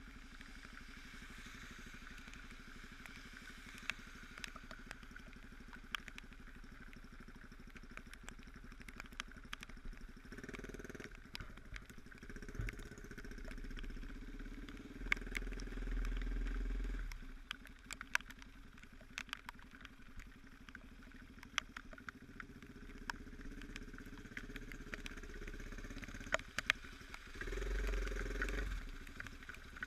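Motorcycle engine running at low revs, swelling louder three times as it is throttled up, with scattered sharp ticks throughout.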